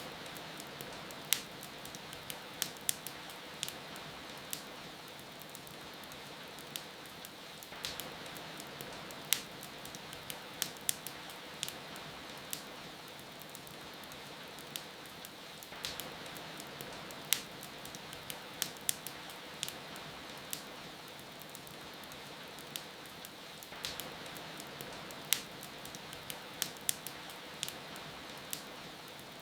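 Steady rain hiss, with a wood fire crackling over it: sharp, irregular pops and snaps, often several in quick succession.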